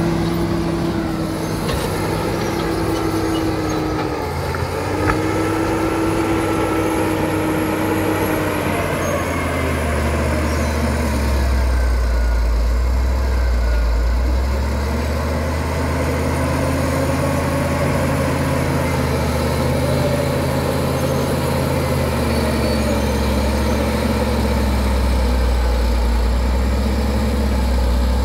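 Caterpillar D7 bulldozer's diesel engine working, its pitch rising and falling as it takes load and eases off, with a heavier low rumble from about ten seconds in. A faint high whine drifts up and down above it.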